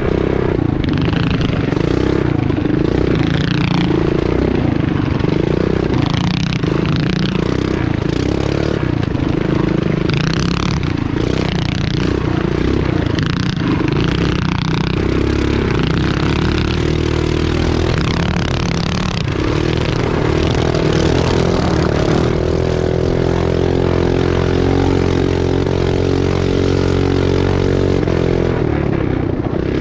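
Mini bike's small pull-start engine running hard on a dirt race track. For the first half the revs rise and fall again and again; from about halfway to near the end it holds a steady high pitch.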